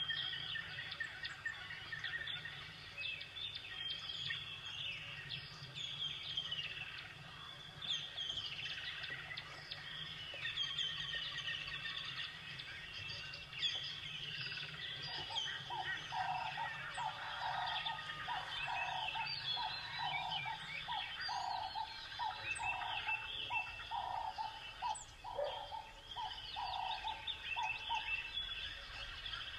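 Birdsong: many small birds chirping and twittering throughout. From about halfway in until near the end, a steady run of lower repeated notes comes about three every two seconds.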